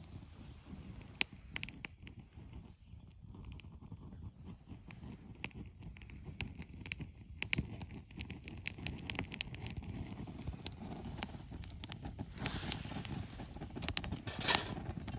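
Wood campfire crackling and popping with sharp irregular snaps over a low rumble, growing slowly louder, with a brief louder rush near the end.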